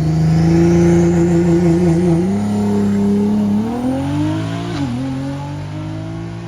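A drag car's engine at full throttle, accelerating hard down the strip: the note holds steady at first, then climbs in pitch, drops sharply at a gear change about five seconds in, and climbs again.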